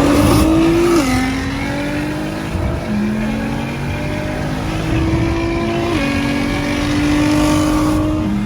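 Car engine under hard acceleration, pulling up through the gears. The note climbs steadily in each gear and drops sharply at each upshift, about 1, 3 and 6 seconds in and again at the very end.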